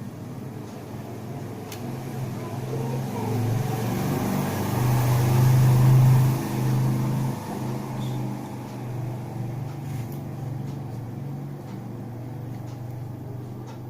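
A motor vehicle's engine passing by: a low hum that swells to its loudest about six seconds in, then slowly fades.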